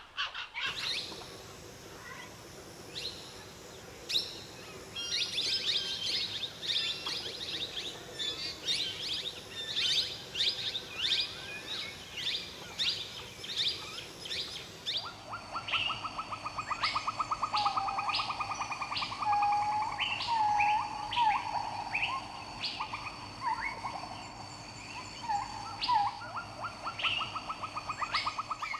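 Wild birds calling: a run of many quick, sharp chirps, then an abrupt change about halfway to a fast buzzy trill and repeated short whistled notes over a steady high hum.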